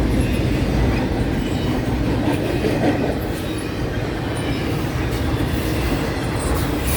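CN freight train's intermodal platform cars rolling past on the rails: a steady rumble of wheels with faint wheel squeal and light clicking.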